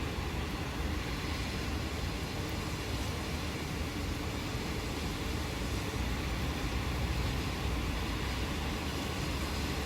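Steady rain with a continuous low rumble underneath.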